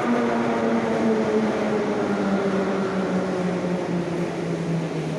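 Moscow Metro 81-717.6 subway car slowing down as it pulls into a station, its traction motors giving a steady whine that slowly falls in pitch under electric braking, over the rumble of wheels on rail, heard from inside the car.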